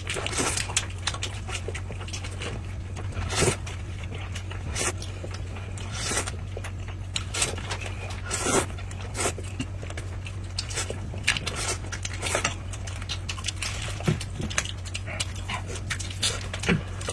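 A person eating noisily with wet smacking and chewing sounds and short breathy bursts at irregular intervals, over a steady low hum.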